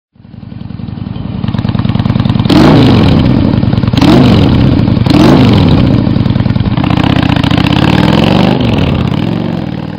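Motorcycle engine revving: it builds up, is blipped sharply three times with the pitch falling back after each, runs on more steadily, and then cuts off suddenly.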